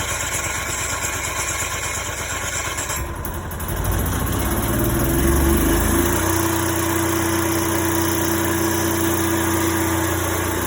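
Propane RV generator's starter cranking the engine, which catches about three seconds in, rises in pitch and settles into a steady run by about six seconds.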